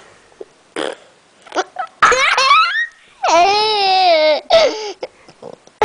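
Baby's high-pitched vocal noises: a rising squeal about two seconds in, then a longer, wavering squeal, with a short squeak near the end.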